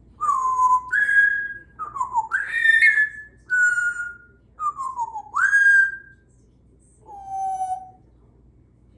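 Congo African grey parrot whistling a run of about eight clear notes. Some glide down, some sweep up, and some hold steady; the last note is lower.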